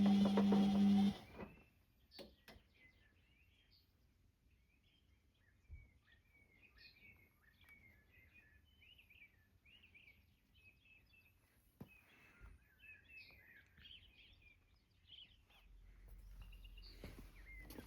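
A BEKO washing machine hums steadily and cuts off suddenly about a second in, pausing in its wash cycle. During the pause birds chirp faintly, with a couple of light clicks, and the machine starts running again near the end.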